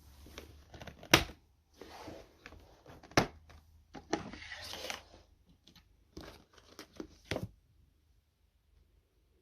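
Irregular sharp clicks and knocks with short stretches of rustling and crinkling, as of things being handled; no vacuum motor is running. The sounds die away about 8 seconds in.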